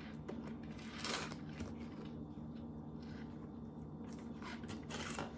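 Gingerbread kit pieces being handled and turned, giving faint light clicks and two short scraping rustles, one about a second in and one near the end, over a low steady hum.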